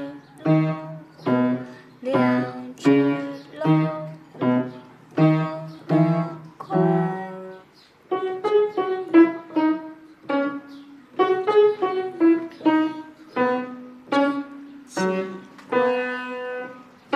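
Background music: a piano playing a light melody of separate notes, spaced out at first and quicker from about eight seconds in.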